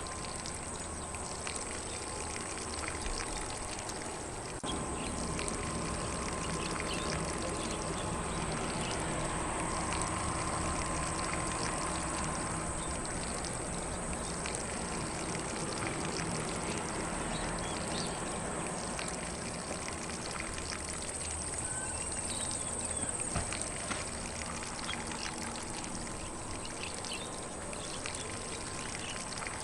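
Lawn sprinkler spraying water steadily across grass, an even, continuous hiss of falling water.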